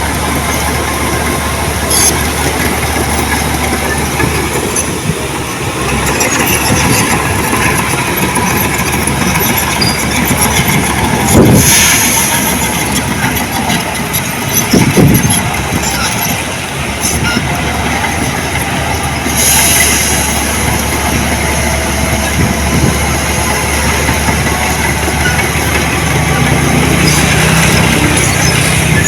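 Heavy diesel earthmoving machinery running steadily, with scattered clanks and rattles. Two louder surges come near the middle.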